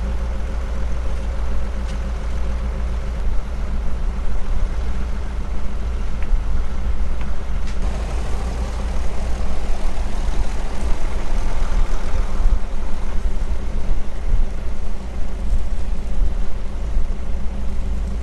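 Heavy farm machine's diesel engine running steadily, its note swelling louder from about eight seconds in.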